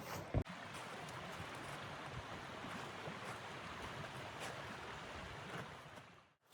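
A steady rushing noise, with a single knock about half a second in; it fades away near the end.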